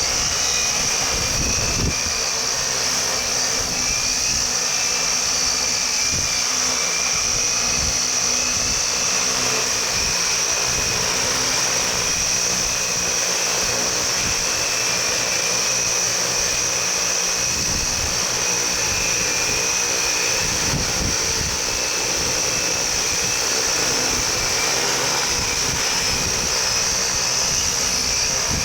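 Multirotor camera drone with large propellers flying, its motors and props giving a steady high whine that wavers slightly in pitch. Gusts of wind buffet the microphone with low rumbles now and then.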